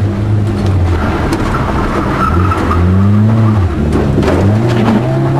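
Lada 2107 engine heard from inside the cabin under hard rally driving, its revs rising and falling several times, dropping sharply about three and a half seconds in and climbing again near the end. A few short clicks sound about four seconds in.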